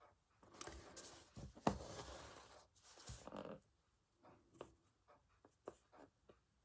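Embroidery thread being drawn through fabric with a needle: rustling, scratchy pulls in the first half, one sharp tap among them, then small ticks and taps of handling.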